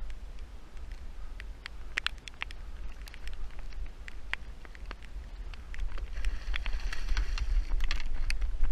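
Raindrops pattering and ticking irregularly on the boat and gear, over a steady low rumble. About six seconds in the sound grows louder and a faint high whir joins.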